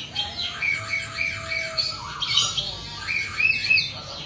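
Male Bali starling calling: a rapid run of harsh squawks mixed with short chirps and whistles, with one held whistled note about a second in.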